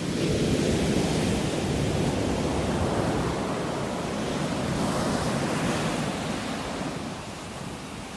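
Sea waves breaking and washing up the shore in a steady hiss, swelling louder in the first few seconds and easing off near the end.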